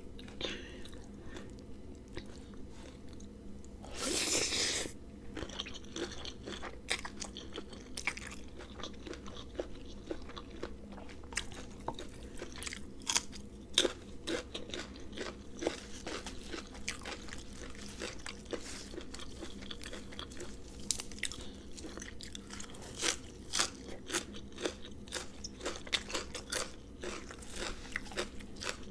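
Close-miked mukbang eating: crisp crunching and chewing of raw vegetables and noodle salad, with many short sharp crunches throughout and a longer, louder burst of noise about four seconds in.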